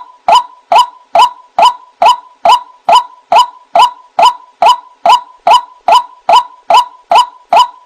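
White-breasted waterhen call: a short 'wak' note repeated evenly, about two and a half times a second.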